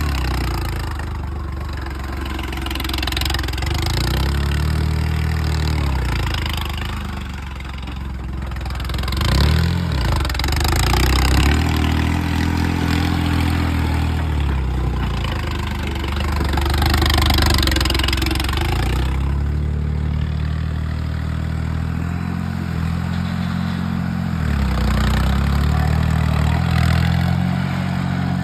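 Diesel tractor engine running hard, its pitch rising and falling again and again as it revs up and eases off.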